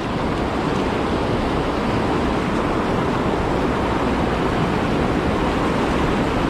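Whitewater rushing steadily through a river rapid and its hole.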